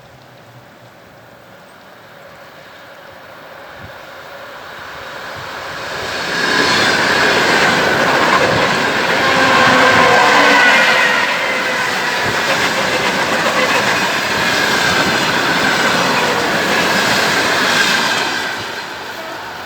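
ED4M electric multiple unit passing at speed. It grows louder for about six seconds, goes by loud for about twelve seconds with wheel clatter and a shifting whine, then starts to fade near the end.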